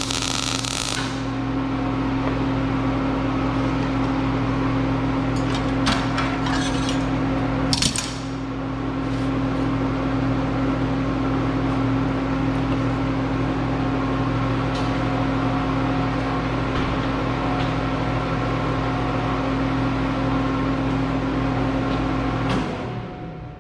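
Electric welder running: a steady electrical hum under a crackling arc, with a few sharp clicks about six and eight seconds in, cutting off shortly before the end.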